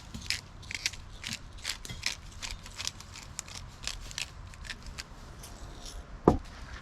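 Blade cutting with short crisp strokes, two to three a second, then one loud knock near the end.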